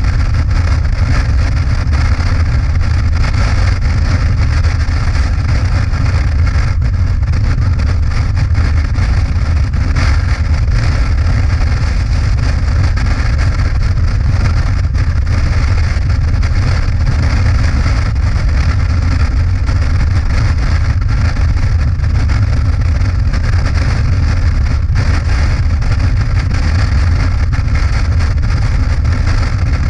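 Motorcycle engine running steadily under way, an even drone with no change in speed.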